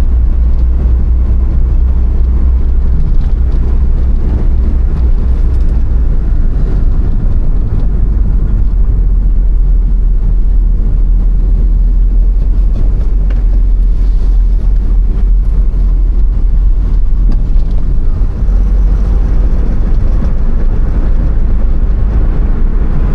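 A moving road vehicle, with a heavy, steady low rumble throughout.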